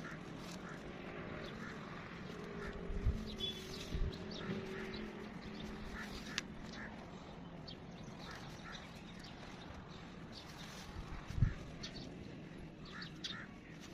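Bird calls in the background, repeated short calls, with a few brief low thumps.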